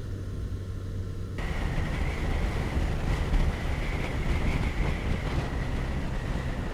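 Motorcycle riding at steady speed: the engine runs with a low, even hum under wind rushing over the rider's microphone. The rushing gets suddenly louder about a second and a half in.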